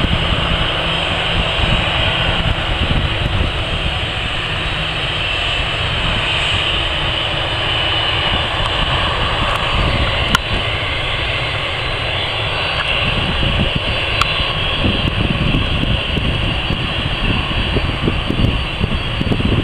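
Jet airliner engines heard as a steady, loud rushing noise, with wind buffeting the microphone.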